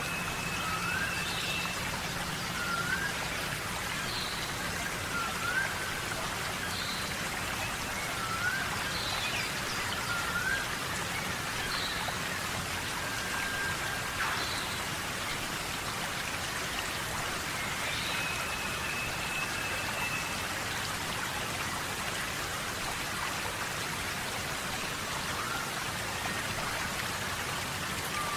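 Steady rain falling in a tropical rainforest, an even hiss of drops. Over it, short rising chirps of some animal repeat every second or two through the first half, with a couple of longer steady whistled notes.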